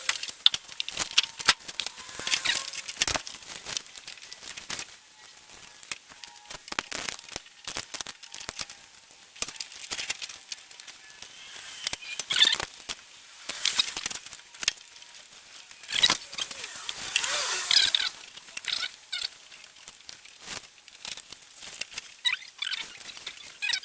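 Irregular clinks, clatters and rattles of hand tools and metal parts being handled while an engine is reassembled, with short busy flurries and quieter gaps between.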